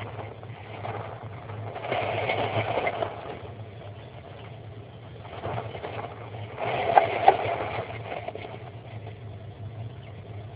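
American kestrel shuffling and scratching in the wood-chip nest lining of a nestbox, in two spells of rustling with two sharp taps about seven seconds in, over a steady low hum.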